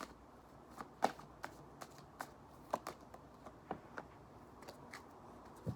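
Tarot cards being shuffled by hand: a run of irregular light clicks and slaps as the cards hit one another, roughly two a second.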